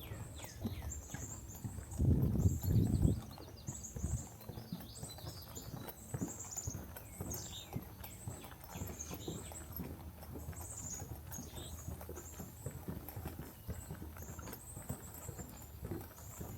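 Steady footsteps on a trail with songbirds chirping throughout in short, high, repeated notes. A brief louder low rumble comes about two seconds in.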